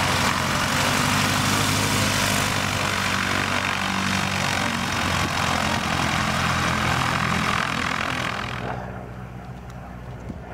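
Propeller-driven biplane running loud close by, a steady engine note under heavy propeller noise, which drops away sharply about eight and a half seconds in.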